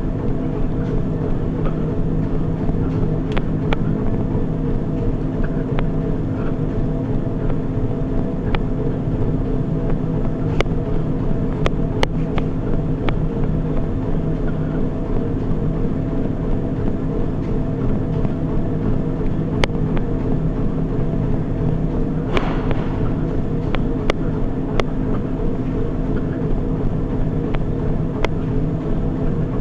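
Treadmill running steadily: a constant motor hum and belt whir, with a few scattered light clicks.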